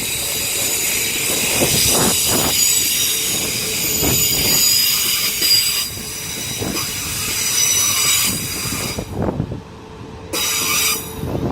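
Class 450 Desiro electric multiple unit running slowly into the platform with a high-pitched squeal of wheels and brakes as it slows to a stop. The squeal breaks off and returns several times, with a final short squeal near the end, over occasional low thuds of wheels crossing rail joints.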